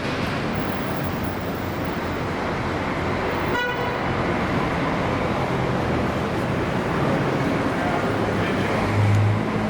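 Steady road-traffic noise with a short horn beep about three and a half seconds in, and a low engine hum swelling near the end.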